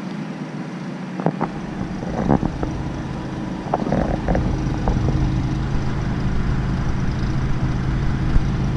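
Predator 3500 inverter generator running steadily with an even engine hum. There are a few short knocks in the first few seconds, and a deeper low rumble comes in about a second and a half in and holds.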